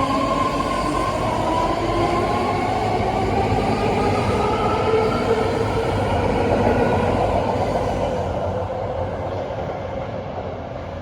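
BART Fleet of the Future electric train accelerating away from the platform: a motor whine made of several tones that slowly rise in pitch, over a steady rumble of wheels on rail. It fades in the last few seconds as the train pulls away.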